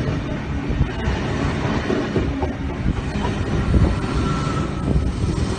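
Stainless-steel double-deck electric passenger train running past close by: a steady rumble of wheels on the rails with a few clacks. A faint high tone sounds briefly about four seconds in.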